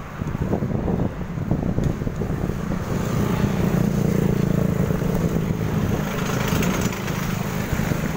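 A motor vehicle's engine running close by, growing louder from about three seconds in and easing off near the end, over a rumbling of wind on the microphone.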